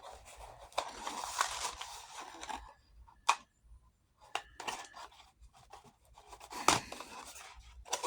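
Hands working saddle leather and blevins buckle hardware: rubbing and scraping for the first two seconds or so, then a few sharp clicks and knocks.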